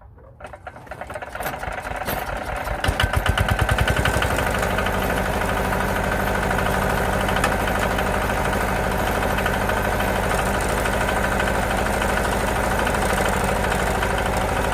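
Howard Gem rotavator's single-cylinder diesel engine cold-started with the wind handle: the beat quickens as it is wound over, it catches about three seconds in with a few loud, uneven firing beats, then settles into a steady idle.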